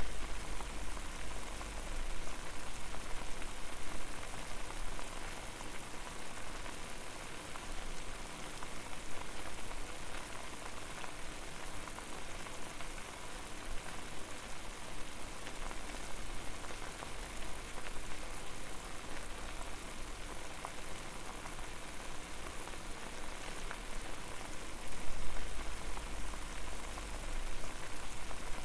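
Water boiling over a fire: a steady, dense bubbling and crackling hiss. A low rumble swells briefly at the start and again near the end.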